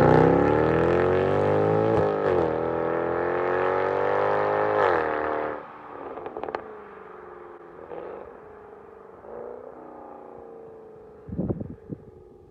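Mercedes-Benz C63 AMG W204's 6.2-litre V8 through an aftermarket sport exhaust, accelerating hard with rising pitch. A brief dip about two seconds in sounds like an upshift. It pulls again until about five and a half seconds, then lifts off and drops to a quieter, steadier engine note, with a few sharp bangs near the end.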